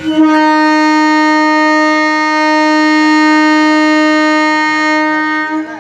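MEMU electric train's horn sounding one long, steady blast at a single pitch for about five and a half seconds, starting and stopping abruptly.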